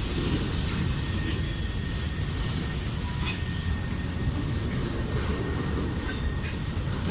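Freight cars of a CSX manifest train rolling past, a steady rumble of wheels on rail with a faint steady high whine and a couple of sharp clicks.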